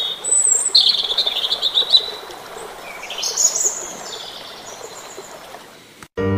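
Wild birds chirping and calling over a steady outdoor hiss: a trilling call about a second in and a rising whistled call around the middle. The sound cuts off just after six seconds, and piano music begins right at the end.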